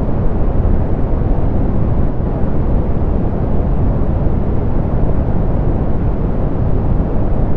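Steady, softened pink noise: an even hiss with no tones or events, its weight in the low end and its highs rolled off, so it sounds deep and smooth.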